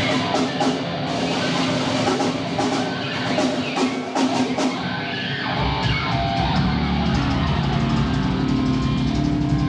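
Loud live rock band: electric guitar and drums with cymbal hits, then a bit past halfway a low sustained bass drone with held guitar notes.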